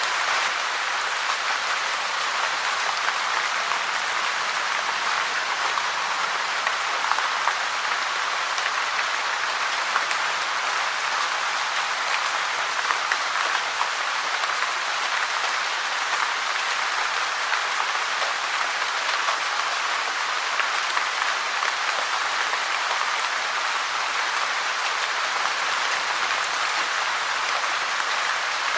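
Steady rain falling: an even, dense hiss of many drops, with a few slightly louder individual drips.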